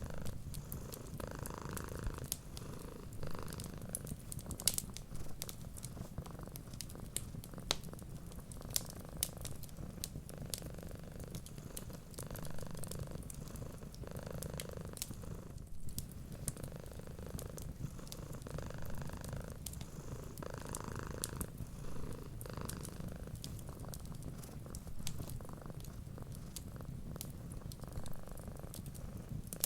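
Domestic cat purring steadily in a continuous low rumble, over a wood fire crackling with many small, scattered pops.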